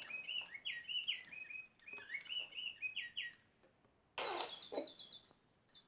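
Digi Birds electronic toy bird singing a birdsong melody: a string of short chirped notes, a brief pause, then about four seconds in a louder, faster run of higher chirps.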